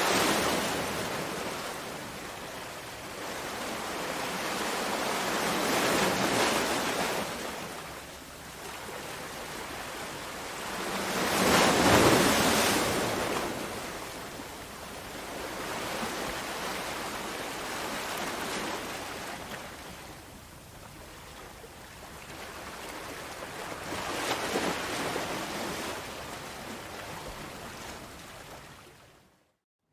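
Sea waves washing onto a shore, each surge swelling and falling back every several seconds, the biggest about twelve seconds in. The sound drops out briefly just before the end.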